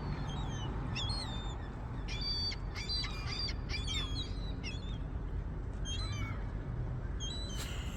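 Several gulls calling at once, short overlapping squawks and cries that are busiest in the middle, over a steady low rumble.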